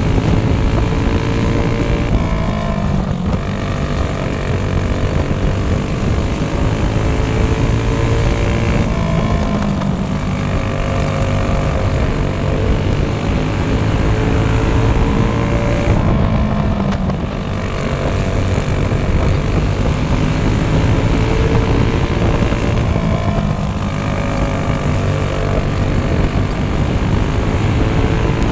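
Go-kart engine running at speed on a dirt oval. The revs drop and climb again about every seven seconds as it lifts for each turn and accelerates down the straights.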